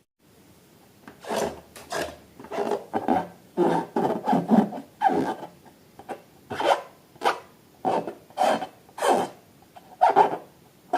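A series of short rasping, rubbing strokes, roughly one or two a second, starting about a second in.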